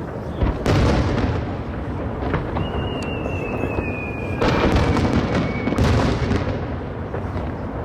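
Aerial firework shells bursting in a continuous run of booms, the loudest about half a second, four and a half and six seconds in. A long high whistle slowly falls in pitch between them.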